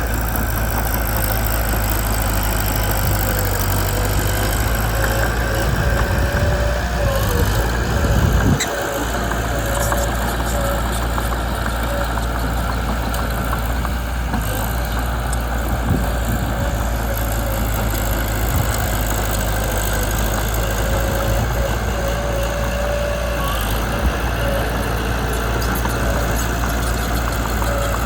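Mitsubishi BD2 bulldozer's diesel engine running steadily, briefly louder about eight seconds in and ending that swell with a single knock.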